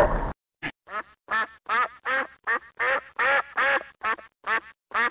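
Domestic duck quacking in a quick, even series of short quacks, about two and a half a second, starting about a second in. A louder, longer call cuts off just before them.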